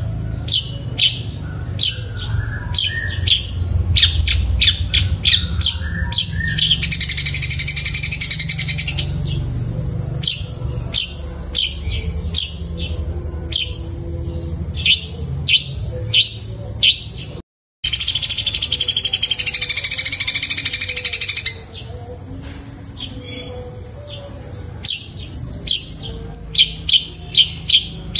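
A long-tailed shrike (cendet) sings a rapid run of sharp, high chirps in the style of fighting house sparrows. Twice it breaks into a longer fast buzzing trill of two or three seconds. The sound cuts out completely for a moment past the middle.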